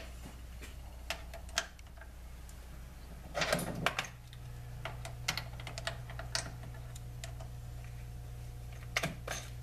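Small metal clicks and clinks of bolts and chuck jaws being handled and started into their threads on a lathe chuck, with a short clatter about three and a half seconds in and another near the end, over a steady low hum.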